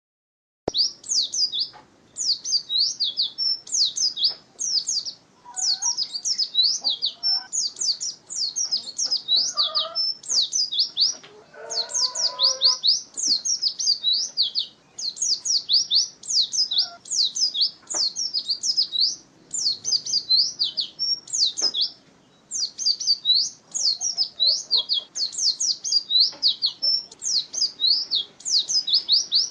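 White-eye (pleci) singing: rapid, high-pitched twittering phrases repeated over and over with short breaks between them.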